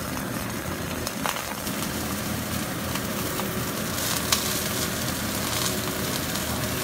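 Chicken thigh steak frying in a pan, its skin crisping in the rendered fat: a steady sizzle with a couple of sharp pops of spattering fat.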